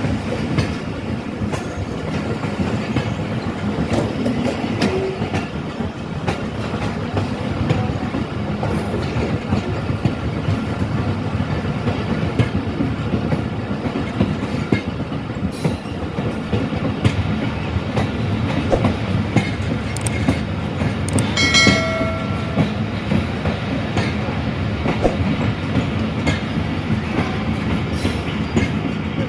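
Passenger train running on the line: a steady rumble with wheels clicking over the rail joints. About 22 seconds in, a short high-pitched tone sounds for about a second.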